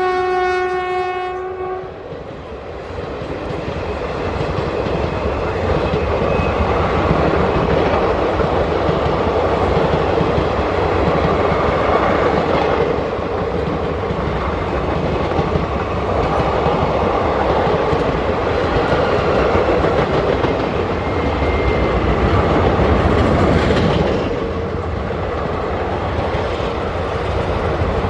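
An Indian Railways locomotive horn sounds and ends about two seconds in. Then a train's coaches roll past at speed with steady rumble and clickety-clack of wheels over rail joints.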